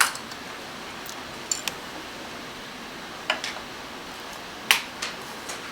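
Sharp little clicks and taps of small metal tools and parts at a watchmaker's bench, about six spread irregularly, the loudest at the start and near the end, over a steady low hiss.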